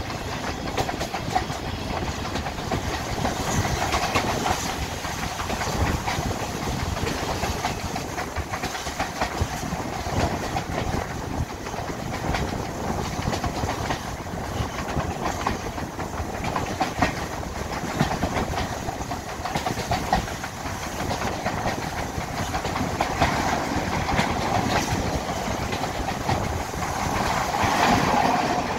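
Passenger train running along the line, heard from an open carriage window: a steady rumble and clatter of coach wheels on the track, getting louder near the end as the train passes under a brick bridge.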